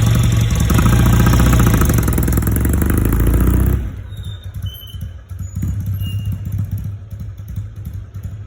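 Kawasaki W1SA 650 cc parallel-twin engine running loudly through its exhaust, then dropping sharply quieter about four seconds in and running on at a lower, uneven level.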